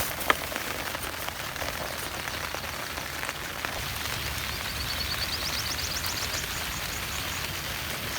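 Steady rain falling, an even hiss scattered with small drop ticks, with one sharp tick just after the start. From about four seconds in, a high chirping call repeats several times.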